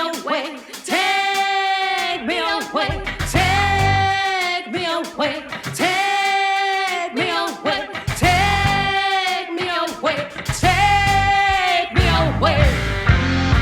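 Live band music with a female lead singer holding a series of long sung notes over sparse accompaniment. Near the end the full band comes back in with bass, drums and guitar.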